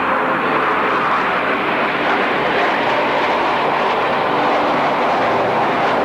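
Steady roar of the Frecce Tricolori formation's Aermacchi MB-339 jet trainers, their single turbojets running as the formation flies the triple roll overhead.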